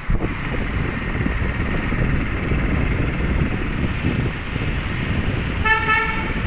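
Steady road and engine rumble inside a moving car, with a knock right at the start and one short vehicle horn beep near the end.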